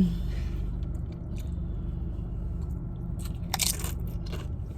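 A person chewing food close to the microphone, with small mouth clicks and one loud crunch about three and a half seconds in.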